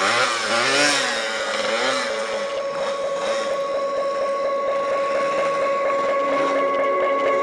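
Single-cylinder two-stroke engine of a Yamaha TDR 125 stunt bike, revved up and down during a wheelie, then held at a steady high pitch for the last few seconds.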